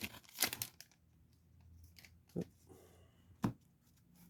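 Foil trading-card pack wrapper crinkling and tearing in the first second, followed by two short taps about a second apart.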